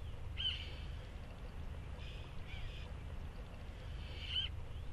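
Birds calling: two short arched calls about four seconds apart, with a fainter call between them, over a low steady rumble.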